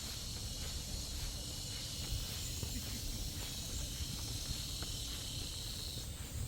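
A steady summer chorus of cicadas buzzing in the woods, with a higher-pitched insect joining in near the end. Soft footsteps on a trail and a low wind rumble on the microphone run underneath.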